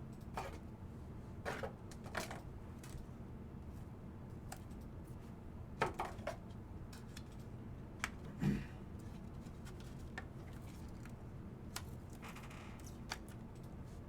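Trading cards and packs being handled: scattered light clicks, taps and short rustles, a few louder ones about six and eight and a half seconds in, over a steady low hum.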